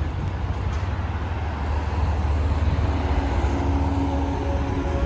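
Steady low rumble of road traffic and motor-vehicle noise.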